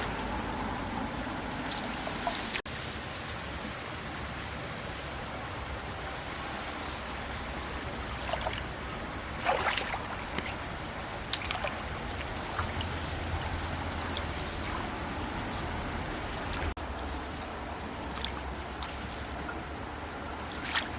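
Running water trickling steadily, with a few short splashes about eight to twelve seconds in.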